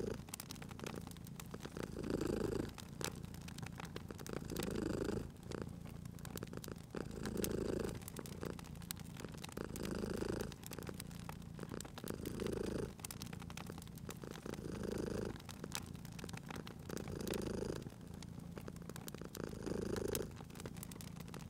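Domestic cat purring steadily, swelling louder about every two and a half seconds with each breath, over the scattered crackles and pops of a wood fire.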